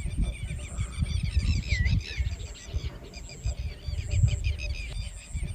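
Wild birds chirping and calling busily, many short quick notes, with a high thin note repeating about once a second. A loud, uneven low rumble runs underneath.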